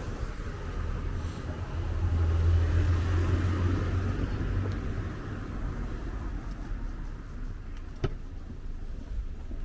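A car passing by on the road: its low engine and tyre rumble swells, peaks a few seconds in, then fades away. A single sharp crack follows near the end.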